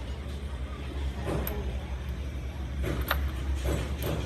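A steady low mechanical drone with several sharp knocks, typical of metal tool work in a workshop: one about a second in, a quick pair near three seconds, and two more near the end.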